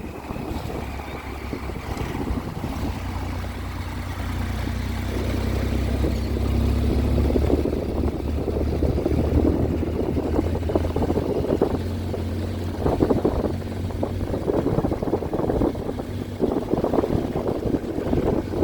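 Triumph Tiger 800's three-cylinder engine running at a steady pitch while riding, with wind buffeting the microphone. The buffeting grows stronger in the second half.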